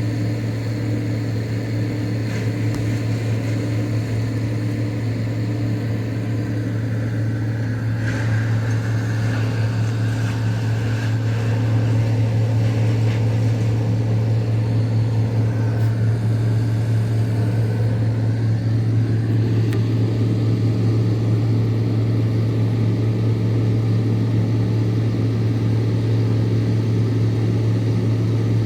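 Tree chipper's engine running steadily with a deep, constant hum, getting louder about twelve seconds in.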